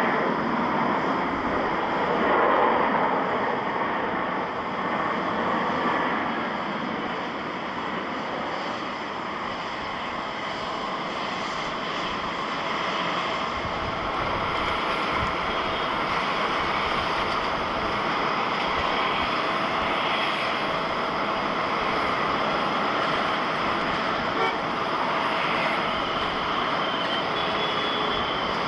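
Jet airliner engines: a steady rushing noise with thin whining tones, loudest in the first few seconds and then easing a little.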